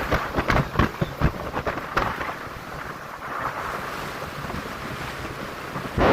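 Wind buffeting the microphone aboard a boat under way, with water rushing past. A quick run of thumps comes in the first two seconds, then a steadier rush, and the noise jumps louder just before the end.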